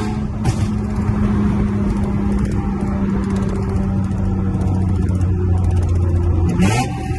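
Car engine droning steadily while cruising, rising in pitch briefly near the end as it revs; a short hiss about half a second in and another near the end.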